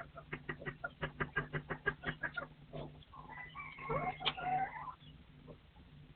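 Partridge clucking in a rapid run of about eight short notes a second, then a brief wavering call that rises and falls in pitch.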